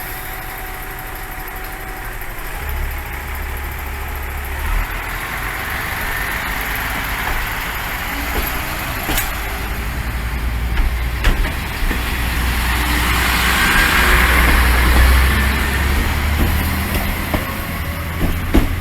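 Diesel railcar engine running, its low rumble stepping up about three seconds in and building louder toward the middle as the railcar gets under way, with a few sharp clicks.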